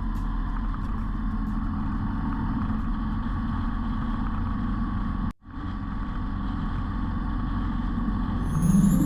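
Motorcycle engine running at a steady road speed, with wind rumble on the microphone. The sound cuts out for a split second about five seconds in. Near the end a rising musical sweep comes in.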